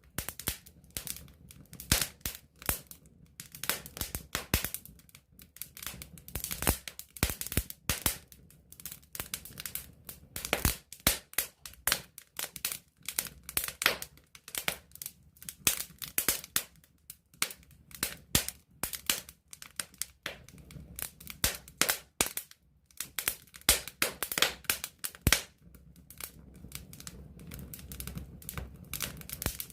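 Wood campfire heard up close, crackling and popping with many irregular sharp snaps. A low rumble grows beneath the crackle in the last few seconds.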